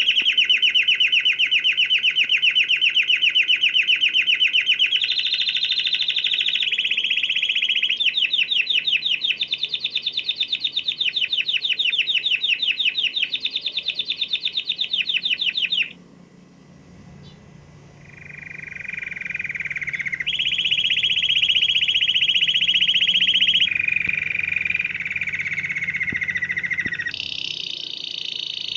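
Canary singing a long song of rapid trilled rolls, each a fast run of repeated notes held for a few seconds before switching to another roll at a different pitch. About halfway through the song breaks off for a couple of seconds, then resumes with lower, gliding rolls.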